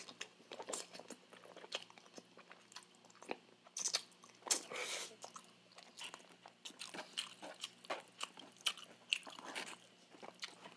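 Close-miked chewing of a mouthful of Jollibee Jolly Spaghetti: soft wet mouth clicks and smacks throughout, with a few louder brief noisy sounds as the plastic fork works through the paper box for more noodles.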